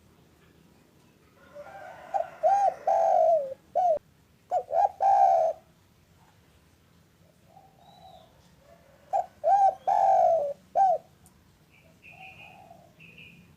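Spotted dove (derkuku) cooing: two bouts of several short, arched coos, the first starting about a second and a half in and the second about nine seconds in. A few faint higher chirps from another bird come between the bouts and near the end.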